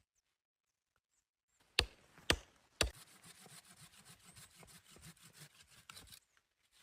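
Wood being worked by hand: three sharp knocks about half a second apart, then about three seconds of quick, rasping strokes that stop suddenly.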